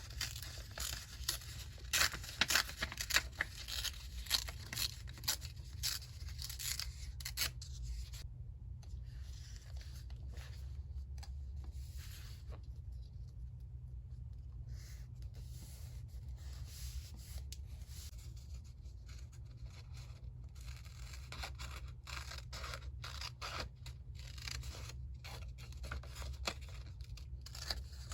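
Paper being handled by hand: crisp crackling and rustling in quick strokes for the first several seconds and again near the end, softer and sparser in between.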